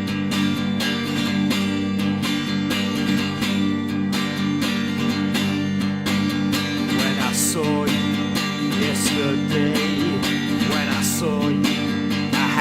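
Acoustic guitar strummed and picked in a song's instrumental intro, sustained chords ringing steadily. A wavering melody line joins about halfway through.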